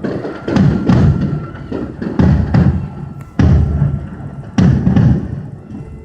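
Aerial fireworks shells bursting in a steady sequence: about seven deep booms in six seconds, some in quick pairs, each dying away in a rumbling echo.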